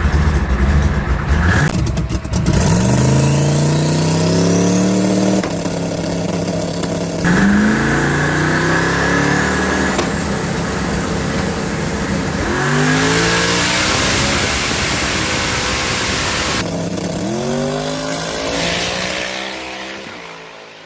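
Twin-turbo Dodge Charger Hellcat's engine accelerating hard down the drag strip at full throttle. Its pitch climbs and drops back at each gear change, about four times, and the sound dies away near the end.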